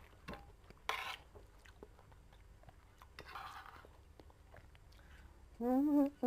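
Close-up chewing of a mouthful of rice and fried tempeh, with a few light clicks of a metal spoon and fork on a ceramic plate. Near the end comes a short hummed vocal sound.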